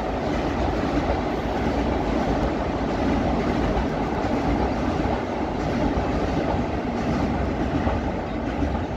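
Passenger train running across a steel truss railway bridge overhead: a steady, unbroken noise of wheels and coaches on the rails.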